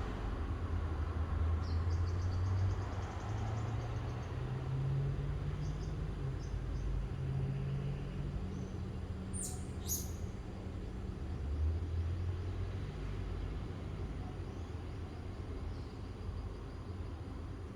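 Low, steady engine hum of a motor vehicle, rising in pitch for a few seconds and then easing back. Over it, birds chirp: a quick high trill about two seconds in and two sharp calls about halfway.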